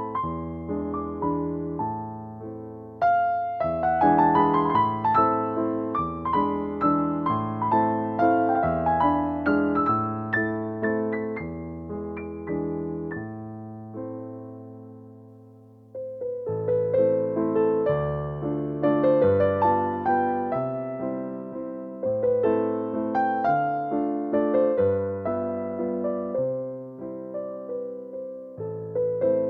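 Piano music: a slow piece of chords and melody notes, which dies away about halfway through and then starts up again.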